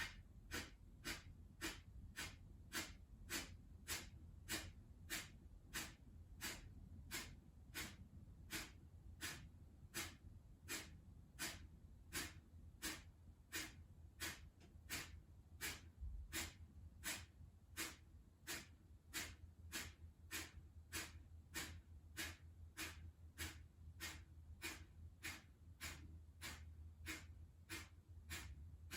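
Kapalabhati breathing: short, sharp, forced exhales through the nose, each snapped out by the belly, with passive inhales between them. They repeat in a steady rhythm of a little under two a second.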